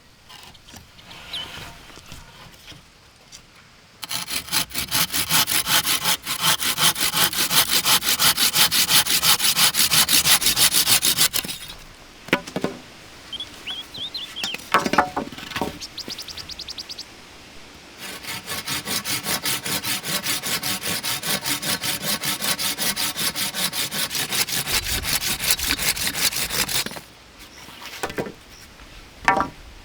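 Hand saw cutting wood in quick, even strokes, in two long bouts with a pause of several seconds between them.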